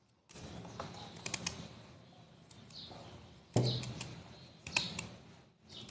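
Blade scraping the skin off a raw beetroot: a run of short, faint scratching strokes with little squeaks.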